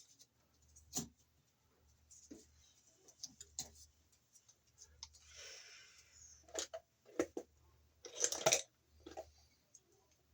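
Snips and clicks of cutters trimming torn sheathing debris off the stripped end of an electrical cable, with a short rustle about five seconds in and a louder cluster of clicks near the end.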